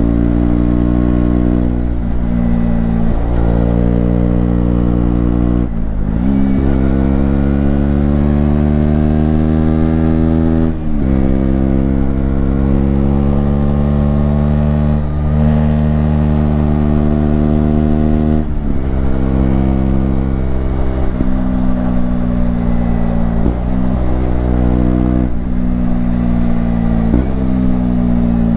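KTM Duke 125's single-cylinder four-stroke engine under way, its pitch climbing as it accelerates and dropping sharply at each upshift, about four times. It then holds one long, slow climb, followed by several quick dips and recoveries near the end.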